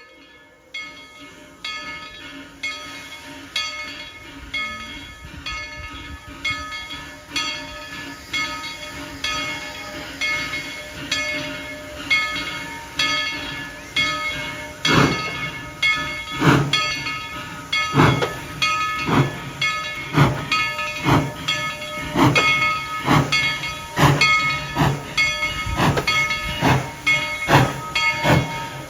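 Tweetsie Railroad No. 190, a narrow-gauge 4-6-0 steam locomotive, on the move: a regular beat of exhaust chuffs about once a second with hissing steam, growing louder about halfway through.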